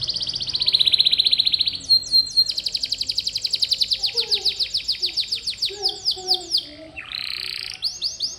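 Canary singing a long rolling song: fast trills of rapidly repeated high notes that change speed and pitch from phrase to phrase, with a short harsh buzzy phrase near the end.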